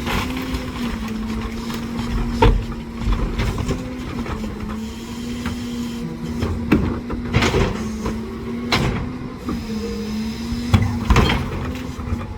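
Garbage truck working on its route: the engine and hydraulics hold a steady hum while several sharp metallic bangs ring out, as of cans or the lift and packer knocking.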